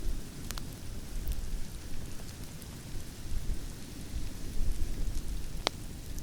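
Campfire crackling, with scattered sharp pops and one louder pop near the end, over a steady low rumble of wind.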